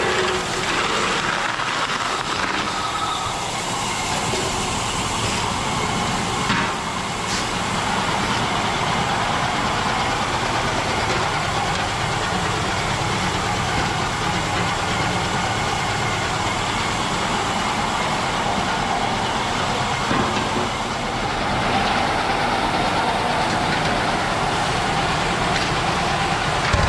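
Grain auger and its drive running steadily while loading hemp seed, a continuous even mechanical drone with a faint steady whine.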